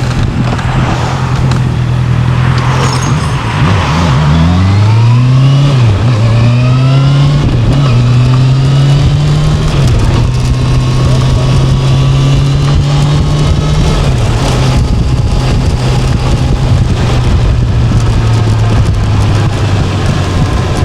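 A vehicle engine accelerating, its pitch climbing in steps and dropping back at each gear change, then holding a steady pitch while cruising, with a steady rush of wind and road noise.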